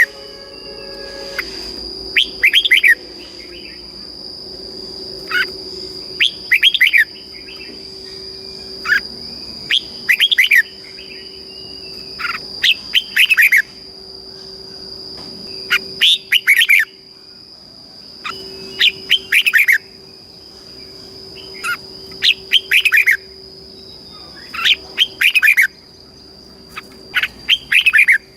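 Red-whiskered bulbul singing: short phrases of a few quick, down-slurred whistled notes, repeated about every three seconds. A steady faint high tone runs underneath.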